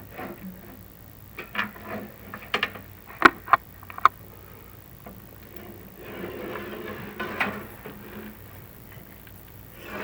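Sharp clicks and knocks, the loudest three close together about three to four seconds in, then a rustling scrape about six to eight seconds in: an inspection camera and its cable knocking and rubbing against the clay flue tile as they are lowered down a chimney flue.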